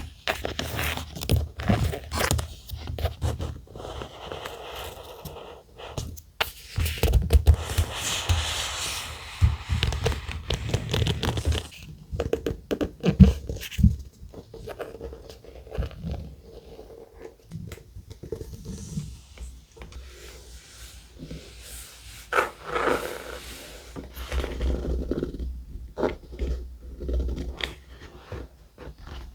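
Thick paper and stickers handled close up: irregular rustling and scraping with scattered light taps, busiest from about seven to eleven seconds in.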